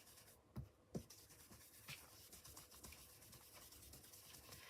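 Faint dabbing and brushing of an ink blending brush on smooth card, with a few soft taps in the first two seconds.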